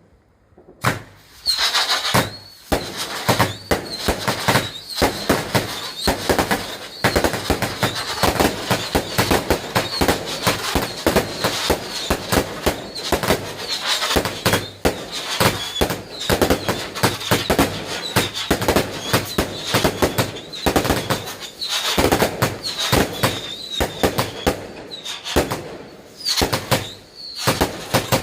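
Fireworks going off in a dense, continuous barrage of bangs and crackles mixed with high squealing whistles, starting suddenly about a second in.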